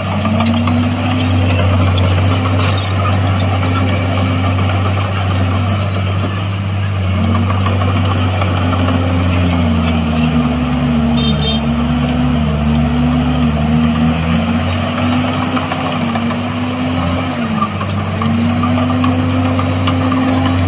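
Heavy diesel engine of an earthmoving machine running steadily and loud, its note dipping and recovering again and again.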